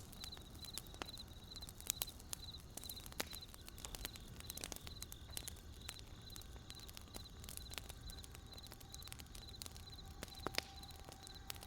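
Wood campfire crackling, with irregular sharp pops of burning firewood, the loudest about two seconds in and near the end. Under it a cricket chirps steadily in short high chirps, two to three a second.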